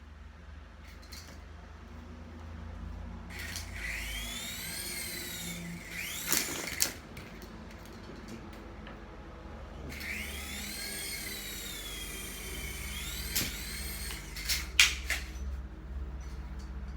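Toy RC helicopter's small electric rotor motors whining, the pitch rising and falling twice as the throttle is pushed up and eased back, over a steady low hum. A few sharp knocks come in the middle and near the end, the loudest a little before the end.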